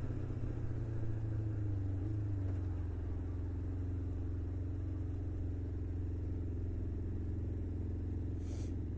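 Motorcycle engine running steadily at low speed in stop-and-go traffic, its revs easing off slightly about two seconds in.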